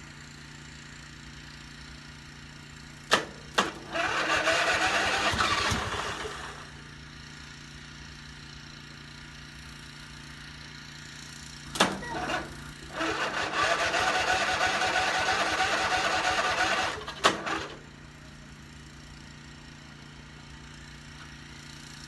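Lawn tractor engine cranked twice by its starter, a click before and after each try, the first about 2.5 s and the second about 4.5 s; it turns over but does not catch.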